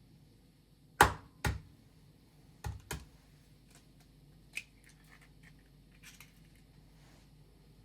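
Objects being handled indoors: four sharp knocks or clicks in two pairs, about a second and three seconds in, the first the loudest, then a lighter tap and faint rustling.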